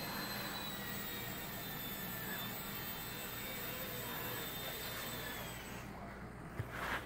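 Blade 70S micro RC helicopter's small electric motors and rotor whining steadily with a high tone, then spinning down and fading about five to six seconds in as it lands. A small click follows near the end.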